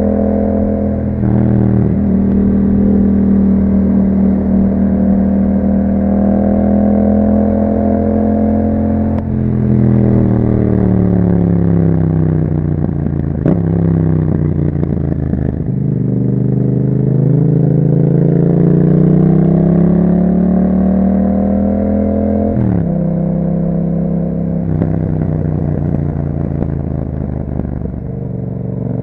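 2021 Yamaha MT-07's 689 cc parallel-twin engine running through an Akrapovic exhaust while riding. It holds steady revs, then the engine speed falls off. After a brief break about halfway through, the revs climb, drop sharply at a gear change about three-quarters through, and climb again near the end.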